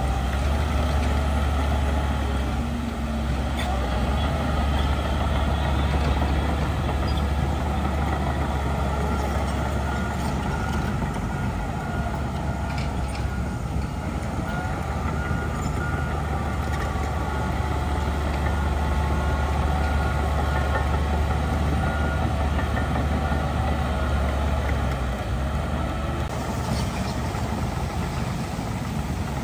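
Heavy diesel earthmoving machinery, a bulldozer and dump trucks, running steadily with an even low drone and a few faint clanks around the middle.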